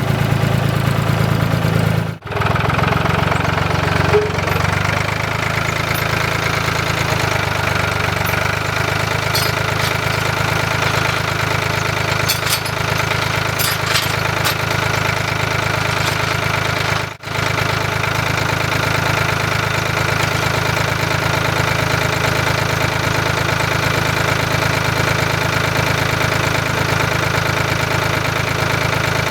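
An engine running steadily with a deep, even drone. The sound drops out sharply for a moment twice, about 2 seconds and about 17 seconds in.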